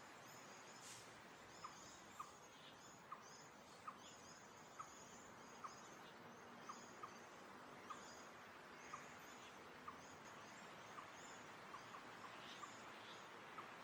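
Faint outdoor birdsong: scattered high, thin chirps and twitters, with a short pip repeating about once a second.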